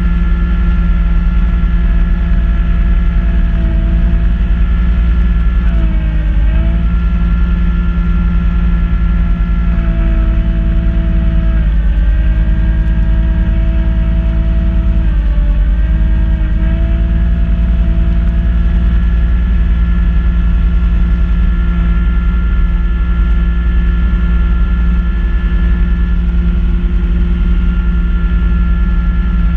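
Kubota B2650 compact tractor's three-cylinder diesel engine running steadily while driving a front-mount snow blower. Its pitch sags briefly three times, about 6, 12 and 15 seconds in.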